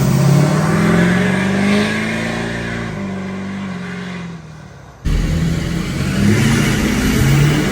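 Straight-piped Duramax 6.6-litre V8 turbodiesel of a school bus, running through a 4-inch straight pipe with no muffler. It revs, then drops in pitch and fades; about five seconds in it comes back suddenly at full level, revving up and down.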